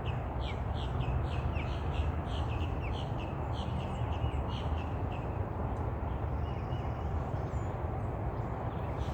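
Birds calling: a quick series of short, sharp calls, about three a second, for the first five seconds or so, then fainter and sparser, over a steady low background rumble.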